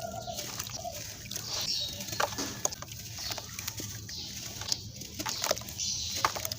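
Crunchy crumbling of sand-cement chunks as they are crushed: an uneven run of gritty crackles and sharp clicks.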